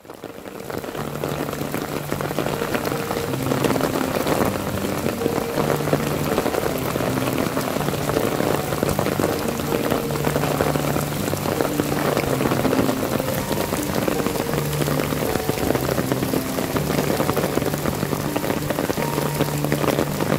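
Heavy rain pouring onto wet asphalt and puddles, a dense steady hiss of splashing drops that fades in over the first second. Soft held music notes sound faintly underneath.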